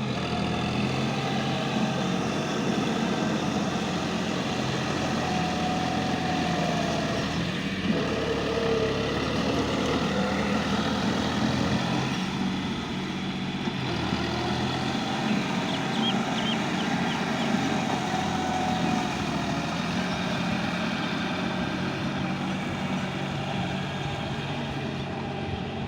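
John Deere 5050D tractor's three-cylinder diesel engine running steadily, its note shifting only slightly now and then.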